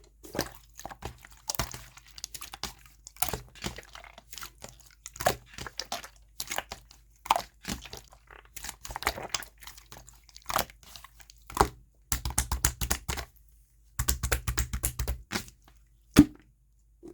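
Clear purple jelly slime worked by hand, giving irregular sticky pops and crackles, with two quick runs of rapid crackling pops past the middle and one loud pop near the end.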